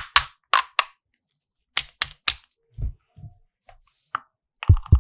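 Sharp clicks and taps of hard plastic toy pieces being handled, with a few duller knocks in the middle. Near the end an electronic toy sound starts: a rapid pulsing beep over low thuds.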